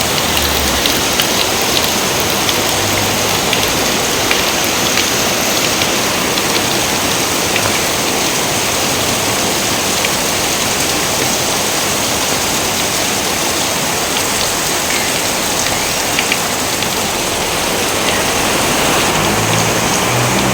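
Steady rain falling, a dense even hiss with fine drop ticks scattered through it.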